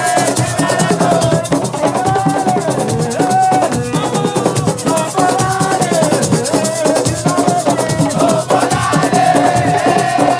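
Group of voices singing a melody over a fast, steady shaker rhythm with drums.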